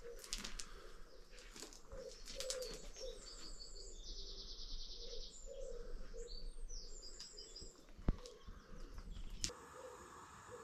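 Birdsong outdoors: a pigeon repeating low cooing phrases while small songbirds chirp and trill high above it. Near the end the sound cuts to a steady hiss.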